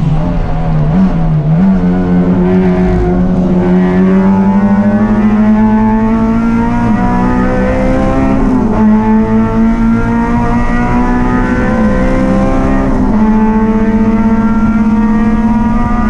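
Racing engine running hard under load. Its pitch climbs slowly over several seconds, with a few brief dips where it drops and then picks up again.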